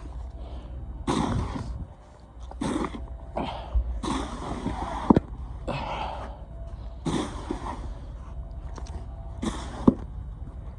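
Snow shovel scraping and scooping heavy wet snow in repeated strokes, about one every second or two, with two sharp knocks of the blade.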